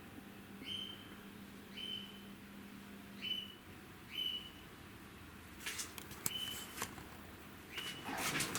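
A bird calling repeatedly, a short whistled note about once a second, each sliding up and then held briefly. A few sharp clicks come in the second half, and a louder clatter starts near the end.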